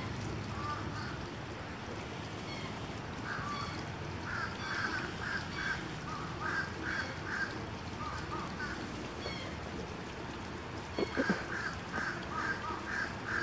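Birds calling in an aviary: short calls repeated in runs of four to six, about three a second, coming and going. A couple of sharp knocks about eleven seconds in.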